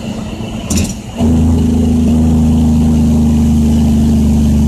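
Caterpillar C10 diesel engine of a loaded dump truck, heard from the cab: after a brief hiss about a second in, the engine note suddenly gets much louder and then holds at a steady pitch.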